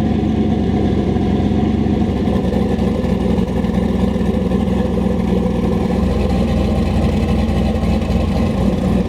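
Turbocharged LS V8 running with its exhaust off, loud and choppy at idle.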